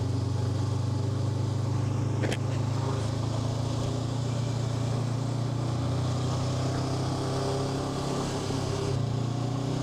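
Honda NX500's 471 cc parallel-twin engine running steadily under way, with a constant rush of noise over it. A single sharp click comes a little over two seconds in, and the engine note sags slightly a couple of seconds before the end, then picks back up.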